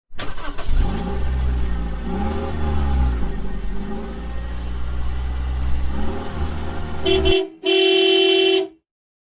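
Car engine running and revving, rising and falling in pitch, then cutting off. A car horn follows with a short toot and then a longer blast of about a second.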